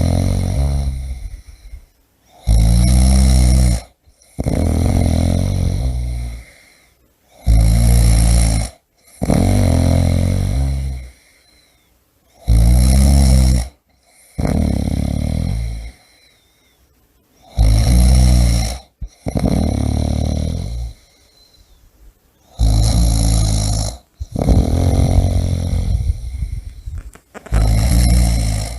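Loud, rhythmic human snoring. About every five seconds comes a short rumbling snore followed at once by a longer one, then a brief quiet pause.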